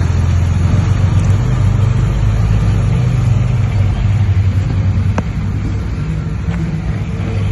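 Diesel engine of a heavy earthmoving machine running steadily with a low drone, with a faint clank about five seconds in.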